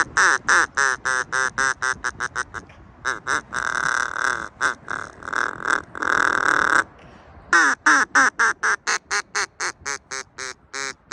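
Duck call blown in a string of rapid quacks, about five a second, with a longer drawn-out stretch in the middle, a brief pause about seven seconds in, then another fast run of quacks.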